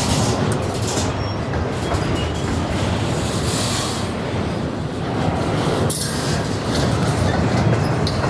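Railroad train rolling past close by: a steady, loud rumble and rush of wheels on the rails.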